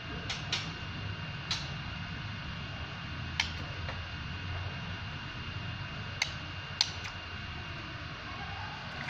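A few short, sharp clicks at irregular intervals, two close together near the start and a pair about two thirds of the way in, over a steady low hum and a faint high whine.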